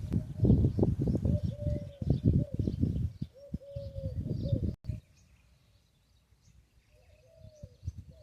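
Birds calling outdoors: short, repeated, low arched coos alongside faint high chirps. The coos come over a low rumble during the first half, which cuts off abruptly about halfway through and leaves only the quieter calls.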